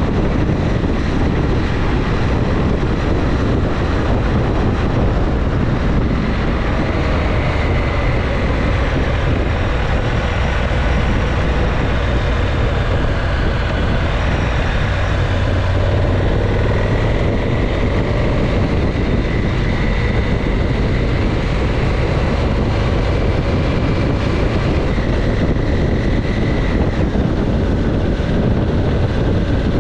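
Motorcycle engine running on the move under heavy wind rush over the microphone, with its note drifting up and down slightly.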